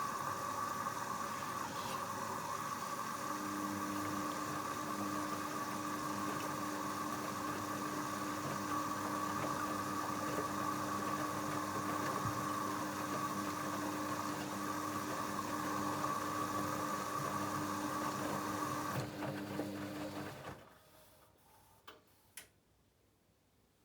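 Hoover Dynamic Next washing machine running with a steady motor whine. A second lower hum joins about three seconds in. The machine stops abruptly about twenty seconds in, followed by two faint clicks.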